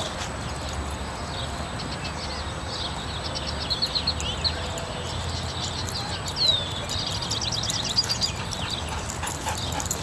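Small birds chirping in quick repeated series, with one downward-sliding call about two-thirds of the way through, over a steady low outdoor rumble.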